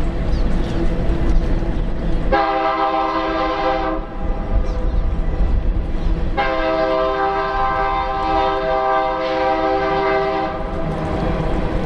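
Diesel locomotive air horn sounding two blasts, a short one about two seconds in and a longer one of about four seconds starting near the middle, over the steady low rumble of a passing train.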